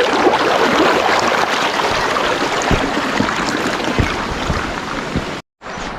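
Steady loud rushing of a forest river's water running over rocks, with a few low thuds. It cuts out for a split second near the end.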